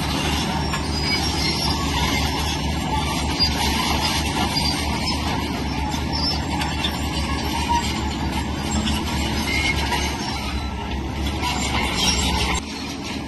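Diesel engine of a heavy crawler earthmoving machine running steadily, with a continuous metallic clatter over it. The sound drops abruptly near the end.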